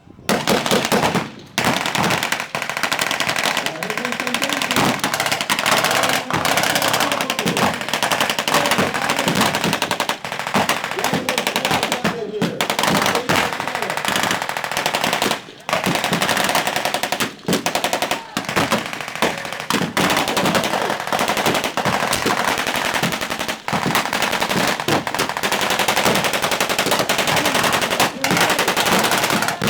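Sustained battle gunfire from blank-firing WWII machine guns and rifles, in rapid, almost unbroken strings. It starts suddenly and breaks off only for a few brief pauses.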